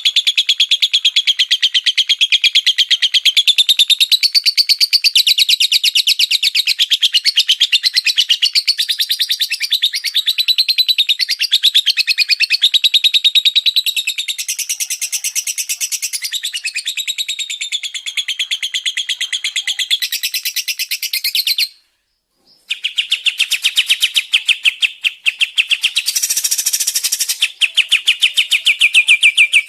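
A songbird singing a fast, dense rapid-fire trill (a 'tembakan' song), many notes a second. It breaks off into a brief silence about 22 seconds in, then carries on.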